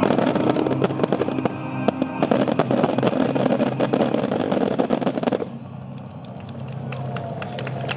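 Star mine fireworks finale by Nomura Hanabi: a dense, rapid crackle of many sharp reports a second, stopping abruptly about five and a half seconds in, after which only quieter background noise remains.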